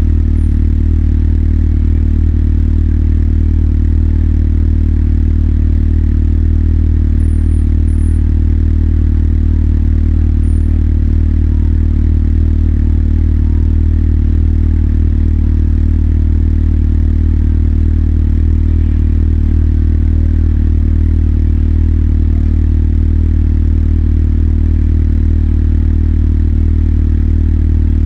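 Motorcycle engine idling with a steady, even low hum that holds one unchanging pitch throughout, with no revving.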